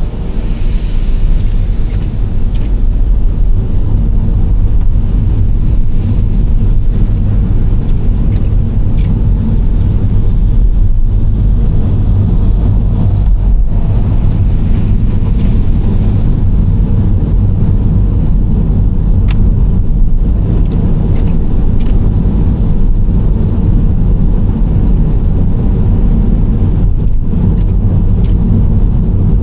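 Nissan Serena C25 minivan driving at a steady pace: a continuous low rumble of engine and tyre road noise, with a few faint ticks now and then.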